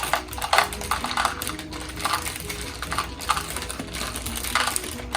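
Mixing in a bowl: a run of short scraping and clicking strokes, typical of a spoon working coconut flakes and chocolate chips together, over background music.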